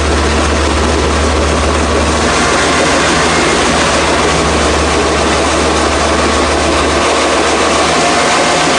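A heavy engine running steadily: a deep, even hum under a loud, unbroken noise, with no beat or rhythm to it.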